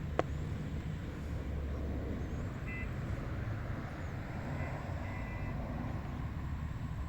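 Steady wind rumbling, mostly low, with one sharp click just after the start and a few faint short high tones near the middle.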